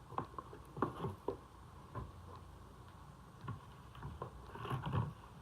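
Scattered light clicks and taps of small objects being handled and set down on a tabletop, a little busier near the end.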